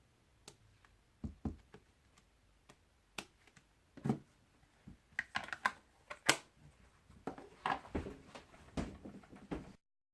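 Light, irregular taps and clicks of a photopolymer stamp on an acrylic block being tapped onto ink pads and pressed onto cardstock. The sound cuts off abruptly near the end.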